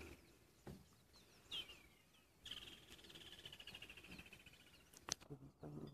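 Faint bush sounds: a bird gives a short chirp, then a long, rapidly pulsed trill that slowly falls in pitch. A sharp click comes near the end, followed by a low hum.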